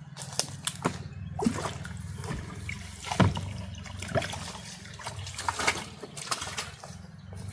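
Water splashing and dripping in a string of short, irregular splashes, with the loudest splash a little past the middle.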